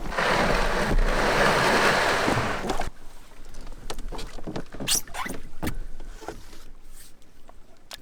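Canoe hull scraping over an obstruction in the river for about three seconds, followed by scattered knocks and clicks against the hull.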